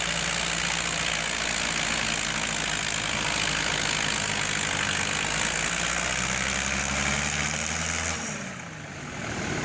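Tractor engine running steadily at high revs; about eight seconds in it is throttled back and the engine note falls away.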